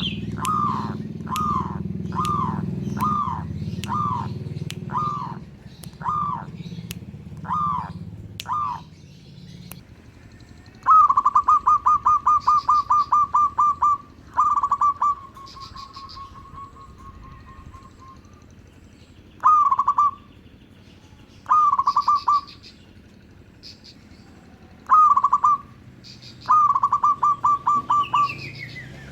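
Zebra dove (perkutut) cooing. For about the first nine seconds it gives a run of evenly spaced, falling coos, a little more than one a second, over a low hum. After that it gives several bursts of rapid, stuttering coos, with faint high chirps from other birds above.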